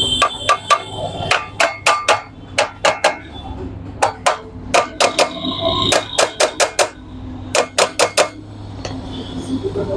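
Bajaj CT 100 crankcase half being knocked down into place over the crankshaft with a hammer: about two dozen sharp taps in quick runs of three to five, some leaving a faint metallic ring, stopping shortly before the end.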